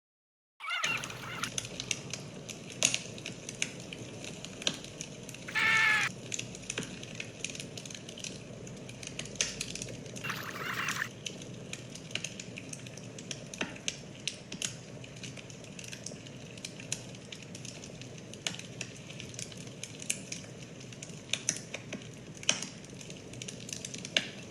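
Campfire crackling: irregular sharp pops and snaps over a steady hiss. There is a short pitched call about six seconds in and a brief hissing burst around ten seconds.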